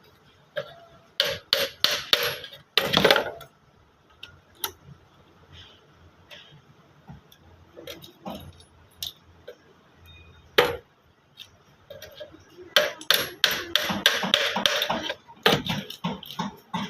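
Hammering on wood: a cluster of sharp knocks in the first few seconds, a single knock about halfway through, and a fast run of knocks near the end.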